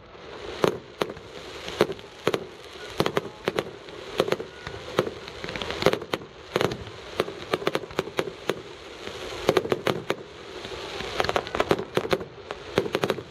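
Fireworks going off: an irregular run of sharp bangs and crackles, often several a second, over a steady background rumble.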